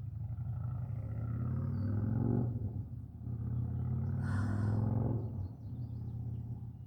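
A person taking two long, deep breaths, each ending in a low, voiced exhale that falls in pitch, as in yoga belly breathing.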